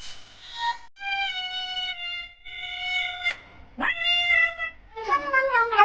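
A cat giving a series of long, drawn-out meows, one after another. The last begins lower and wavers into a yowl near the end.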